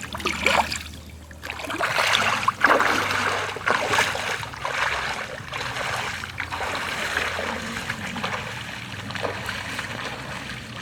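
Shallow water splashing and trickling in uneven bursts, louder in the first few seconds, as crabs are caught by hand in floodwater.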